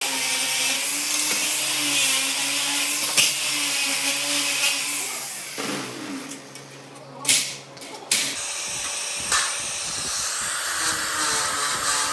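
An electric power tool runs steadily, then winds down about five and a half seconds in. After a short sharp noise, a steady rushing hiss starts about eight seconds in.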